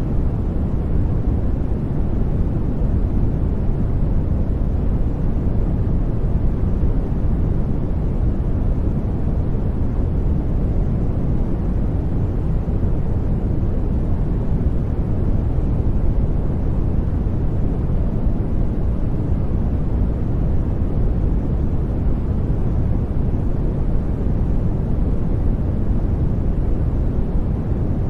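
Steady generated noise sold as white noise, though most of its energy sits low: an even, deep rush with little high hiss and no change throughout.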